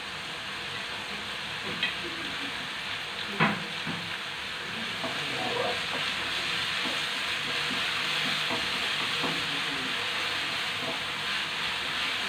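Green chili paste and fried onion sizzling in a hot frying pan, with a slotted spatula scraping and knocking as they are tipped in and stirred. A sharp knock comes about three and a half seconds in, and the sizzle grows louder from about five seconds in.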